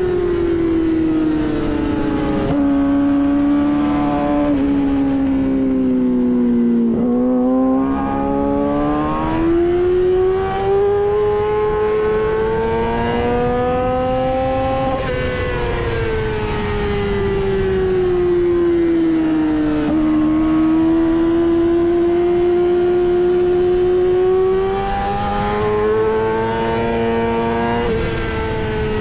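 2007 Yamaha R6's 600 cc inline-four engine at high revs on track. Its pitch falls for the first seven seconds, climbs until about fifteen seconds in, drops again until about twenty seconds, then rises slowly as the rider brakes and accelerates through the lap.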